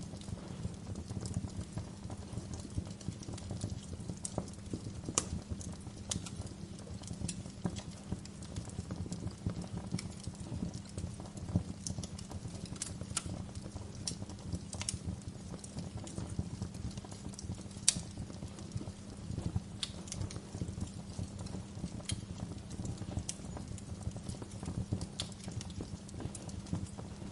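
Wood fire crackling: irregular sharp pops and snaps over a low, steady rumble of burning, with one louder pop about two-thirds of the way through.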